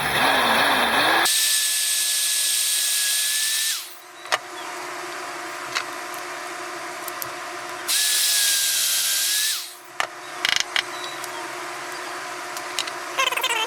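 Small high-speed power drill boring into a resin model part: it runs with a steady high whine for about four seconds and spins down, then runs again briefly about eight seconds in and spins down. Light clicks and handling knocks come in between.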